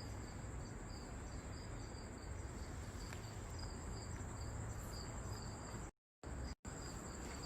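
Crickets chirping, short high chirps repeating evenly about three times a second over a steady high insect trill. The sound cuts out completely twice, briefly, about six seconds in.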